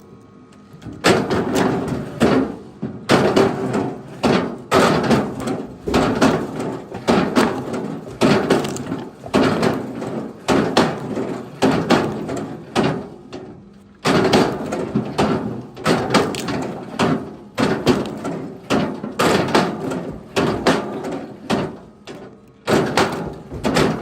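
Pieces of firewood being thrown onto a pile: a dense, irregular run of wooden knocks and clatter, pausing briefly near the start and again about halfway through.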